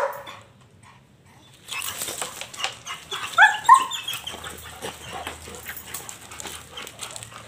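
Police K-9 dog barking on the "speak" command: a bark right at the start, then two short barks in quick succession about three and a half seconds in, over a steady hiss.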